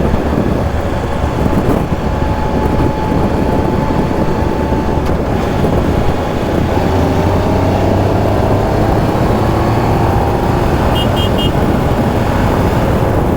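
2015 Triumph Tiger Explorer 1200's inline-three engine running steadily at road speed under wind rush, its note drifting a little in pitch partway through. Three short high beeps sound briefly near the end.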